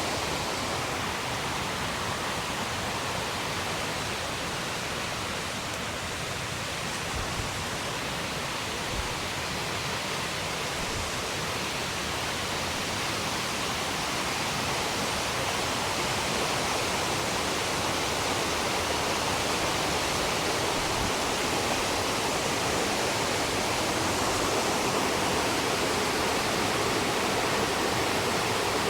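Steady rush of fast-flowing water from a river or waterfall, growing slightly louder near the end.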